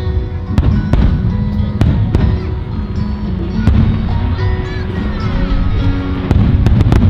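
Fireworks display: a dense, continuous low rumble of shells bursting, with sharp cracks standing out, several in the first two seconds and a quick cluster near the end. Music plays under the bursts.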